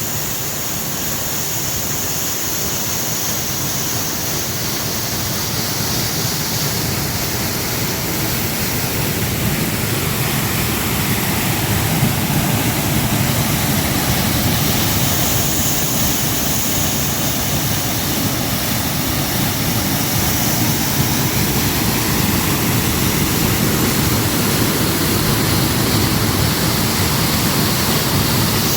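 Steady rush of falling water, slowly growing louder over the first dozen seconds and then holding.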